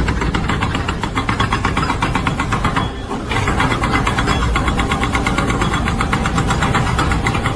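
A machine's engine running with a fast, even pulsing rhythm, which dips briefly about three seconds in.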